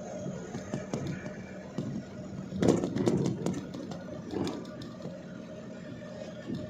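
A vehicle engine running steadily, with a louder burst of clattering and knocks about two and a half seconds in.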